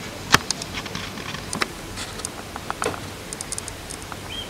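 Light rain: scattered raindrops ticking and pattering close by over a steady hiss, the loudest tick about a third of a second in.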